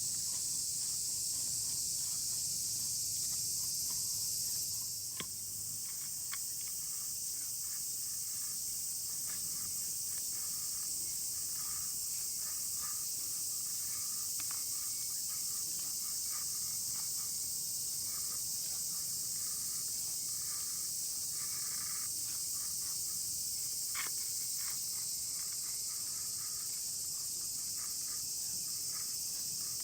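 A steady, high-pitched insect chorus in the woods, with faint ticks and a couple of sharp clicks.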